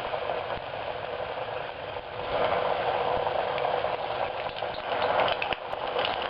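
Panko-breaded chicken wing pieces deep-frying in hot cooking oil in a pot: a steady sizzle full of fine crackles, swelling louder about two seconds in.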